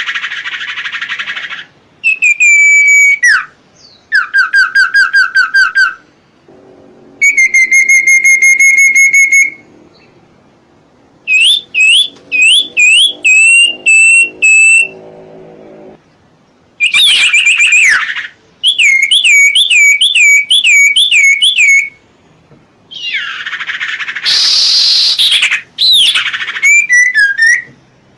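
A songbird singing loud separate phrases of whistles: runs of rapidly repeated rising notes, steady trills and a few harsh raspy bursts, with short pauses between the phrases.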